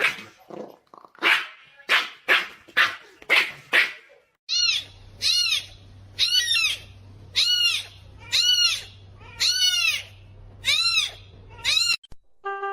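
Pet animal calls: first a run of short, harsh calls about two a second, then from about four and a half seconds a string of high cries that each rise and fall in pitch, over a steady low hum.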